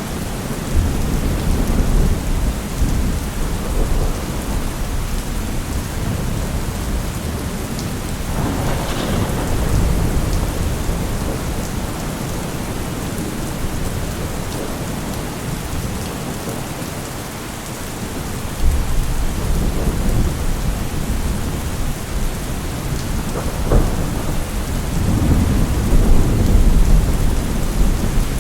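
Steady rain falling, with a low rumble underneath that swells and fades, dipping about two-thirds of the way through and strongest near the end.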